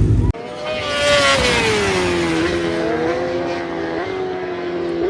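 Racing superbike engine at high revs, starting abruptly. Its pitch falls over the first two seconds or so, then holds fairly steady with a few small jumps.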